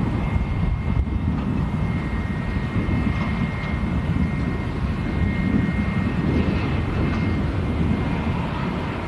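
Jet airliner engines rumbling loudly as a large plane flies past, with a thin steady whine over the rumble.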